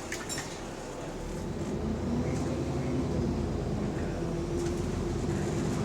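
Bus diesel engine pulling away under load from inside the saloon, growing louder from about a second in; the bus has a small exhaust leak.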